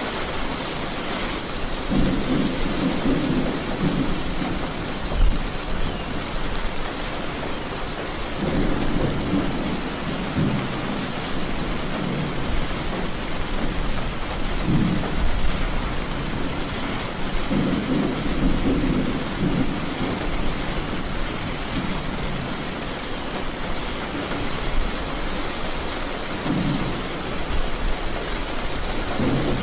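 Steady rain falling, with thunder rumbling low several times, each roll lasting a second or a few seconds.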